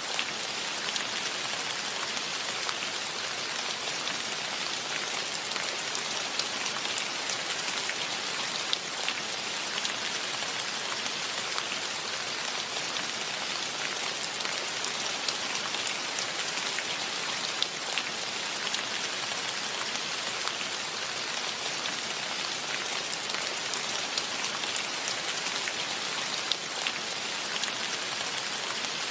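Steady rainfall: an even, dense hiss of rain with scattered sharper ticks of single drops.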